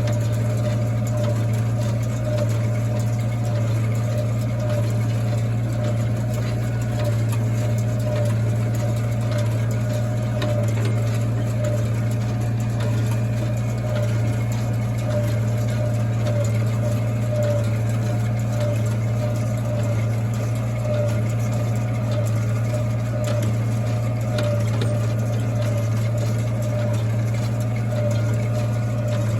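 Old New Holland 68 hay baler running smoothly together with the tractor that drives it: a steady, even mechanical drone, running like a sewing machine.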